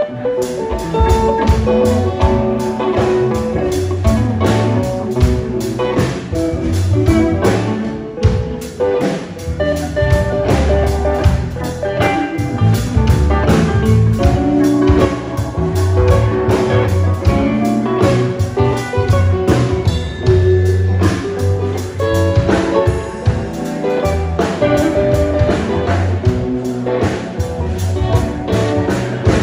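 Live blues band playing an instrumental passage: electric guitar over bass and a steady drum-kit beat.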